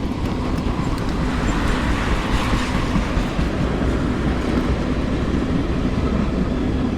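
Steady wind buffeting the microphone: a continuous low rumble and rush, with a faint steady hum underneath.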